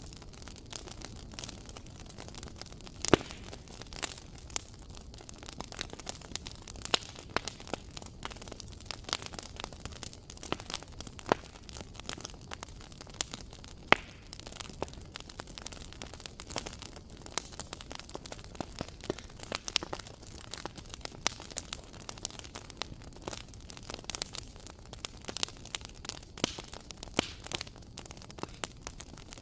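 Wood fire crackling, with irregular sharp pops and snaps over a soft steady hiss; the loudest pops come about three seconds in and again near the middle.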